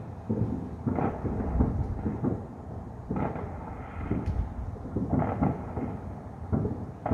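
Fireworks going off in the distance, a run of deep booms about a second apart, each rumbling on and overlapping the next, with a few faint crackles.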